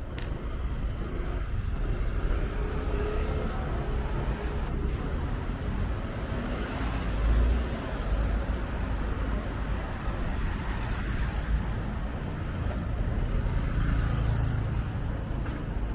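Road traffic: a steady rumble of cars, with vehicles passing that swell loudest about seven seconds in and again near the end.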